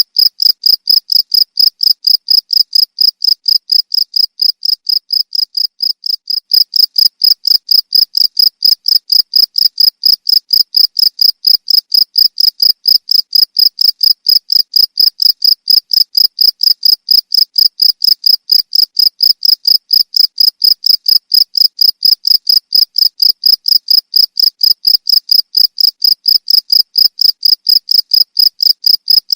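Cricket chirping loudly and steadily, a high-pitched chirp repeating evenly about three times a second.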